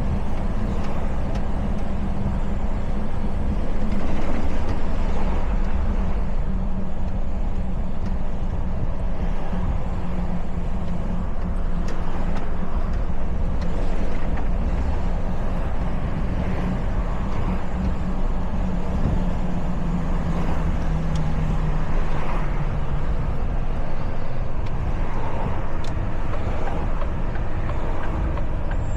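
Diesel truck engine running under way, a steady low drone whose pitch eases down a little past the middle, over tyre and road noise.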